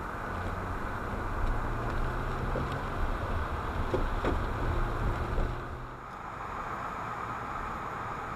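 Car interior noise while driving on a snowy, slushy road: a steady rush of tyres and road with a low engine hum, which eases and gets a little quieter about six seconds in.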